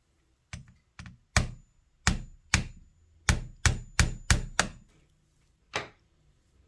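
About eleven sharp taps at an uneven pace, the last after a short pause: a screwdriver set on a sewing machine spindle being struck to knock the spindle down into its seat.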